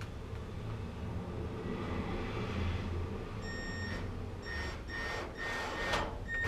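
A GE gas dryer's electronic control beeping: a run of short, high beeps about twice a second, starting about halfway through, over a low rumble, as the freshly repaired dryer is powered up for testing.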